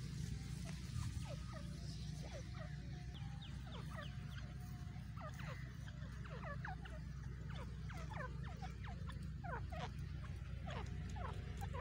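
Birds chirping: many short, quick chirps scattered throughout, over a steady low hum.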